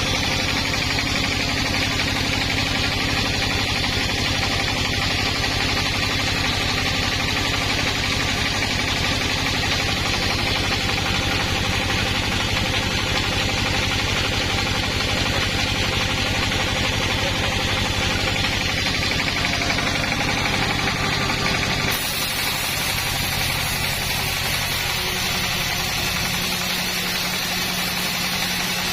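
Sawmill's engine running steadily, with an even pitch. About three quarters of the way through the sound changes abruptly, as at a cut to another take.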